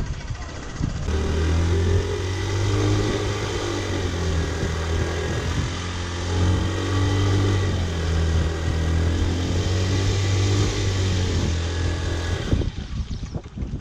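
A motor vehicle engine running close by, steady with slight shifts in pitch, over a hiss. It starts abruptly about a second in and stops abruptly near the end.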